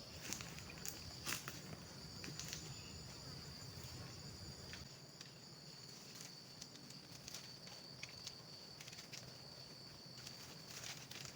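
Insects droning steadily in a high, even pitch in the forest, with scattered faint clicks and crackles.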